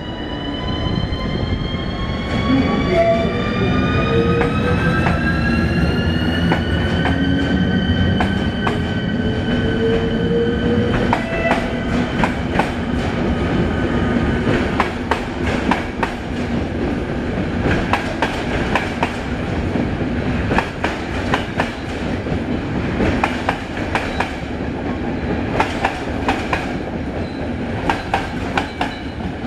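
Electric locomotive pulling away with a train of České dráhy coaches: its traction drive gives a whine of several tones rising in pitch for the first seven seconds or so, then holding steady. From about eleven seconds in, the whine fades and the wheels of the passing coaches click over the rail joints in an uneven clatter over a steady rumble.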